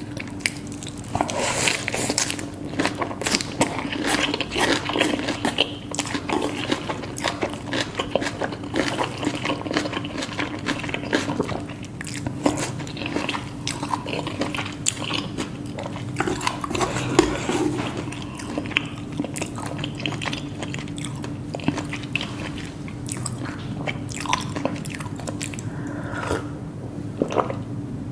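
Close-miked eating: steady, irregular biting and chewing with crisp crunching of Korean food, over a faint steady low hum.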